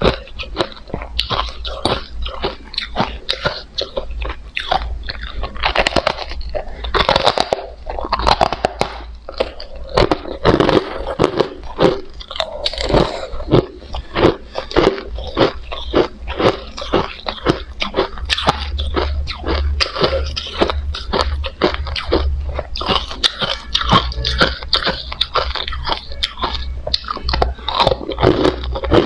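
Crushed hard ice being bitten and chewed close to the microphone: a continuous run of sharp, rapid crunches.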